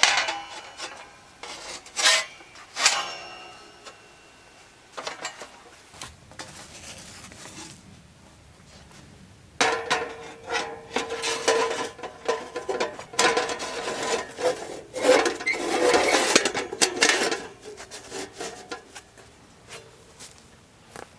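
Metal cookware clanking a few times with a brief metallic ring, then about eight seconds of continuous scraping and rubbing against metal.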